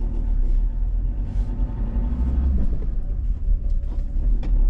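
Steady low engine and road rumble of a car being driven along a road.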